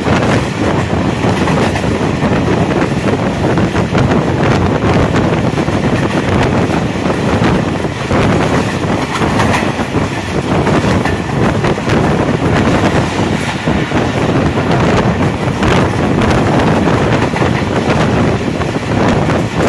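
Passenger train coach running at speed, its wheels rolling and clattering on the track, heard from an open doorway with wind buffeting the microphone.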